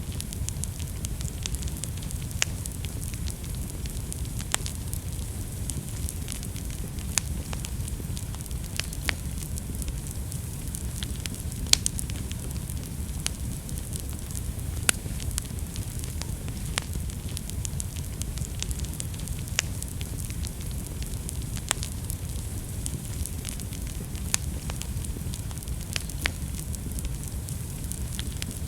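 Wood fire burning in a fireplace, a steady low rumble with irregular sharp crackles and pops scattered throughout, a few louder snaps among them.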